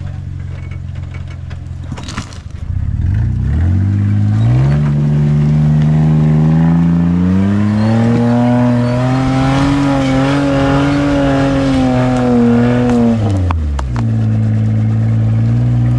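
Four-wheel-drive engine revving under load as the vehicle climbs a rock step. The revs rise over a few seconds, hold high for about five seconds, then drop back near the end.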